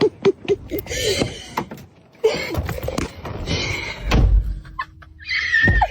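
A vehicle door being opened: clicks and knocks from the handle and latch, with heavy thumps about four seconds in and again near the end.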